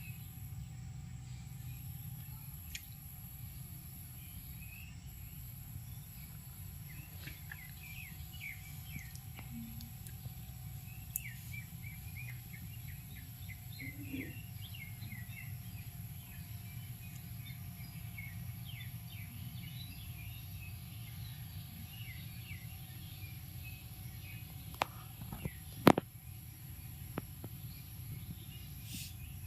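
Birds chirping in short, quick calls over a steady low rumble of outdoor background noise, with a few sharp clicks near the end.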